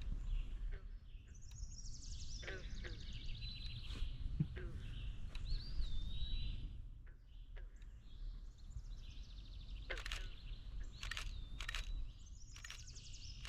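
Songbirds singing: a few high buzzy trilling songs, one about a second and a half in and another near the end, a clear whistled note around the middle, and scattered sharp chip calls, over a steady low outdoor rumble.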